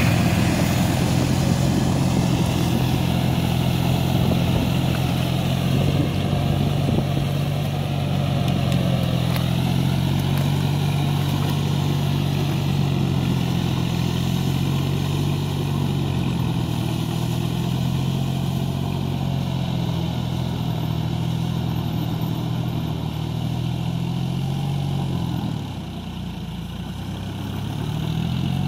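John Deere 5045D tractor's three-cylinder diesel engine running steadily under load. Near the end the engine note drops briefly, then picks up again.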